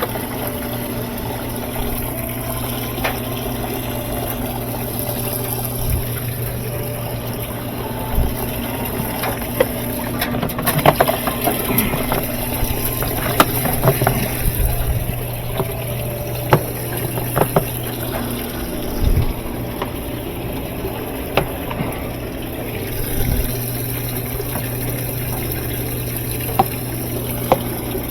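Top-loading washing machine running: a steady motor hum with water moving and being pumped. Scattered clicks and knocks come mostly through the middle.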